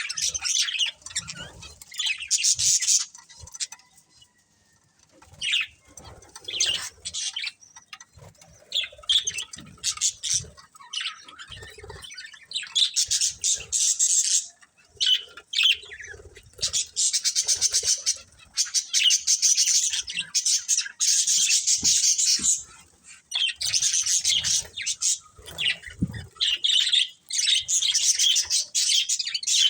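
Budgerigars chirping and chattering in long, rapid warbling spells, with a brief lull about four seconds in.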